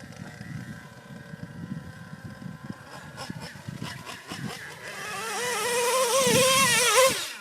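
Small nitro engine of a radio-controlled truck revving, its pitch wavering up and down as the throttle is worked. It comes in about halfway through, grows louder, and cuts off sharply shortly before the end; before it there is only a faint low rumble.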